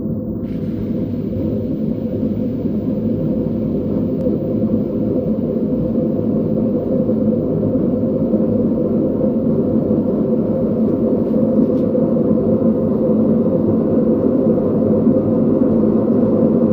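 Front-loading washing machine drum spinning with a loud, steady rumble that grows slowly louder as it picks up speed: the sound of worn drum bearings.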